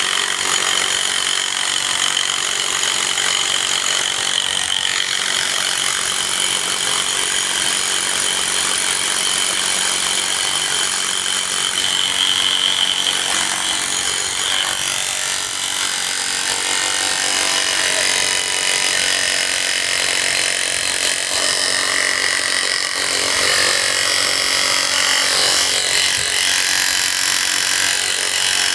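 Steady, loud mechanical noise of construction machinery and power tools at work, with a high steady whine running through it.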